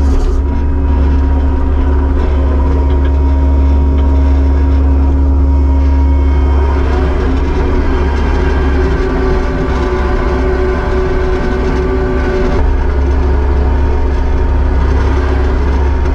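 Kubota SVL75-2 skid steer's diesel engine running steadily under work, its pitch and load shifting about seven seconds in and again near the end.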